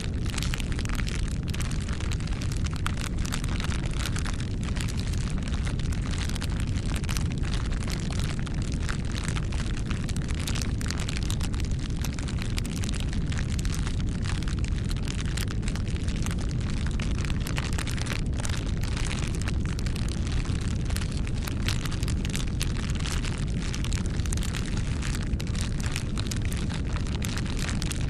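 Campfire burning: a steady low rush of flames with many quick crackles and pops from the burning wood.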